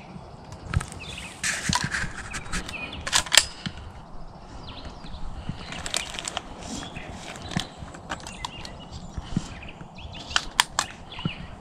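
Footsteps crunching on dry ground, mixed with irregular sharp clicks and rustles, strongest in a cluster a couple of seconds in.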